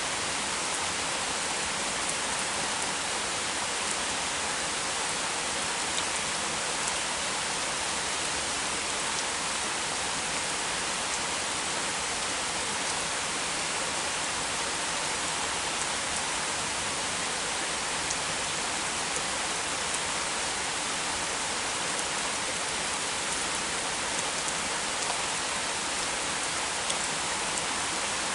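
Heavy rain falling steadily: a dense, even hiss with faint individual drop ticks and no thunder.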